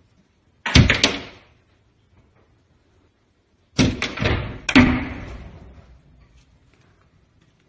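Sudden loud bangs: one about a second in, then two more about a second apart near the middle, each dying away over a second or so.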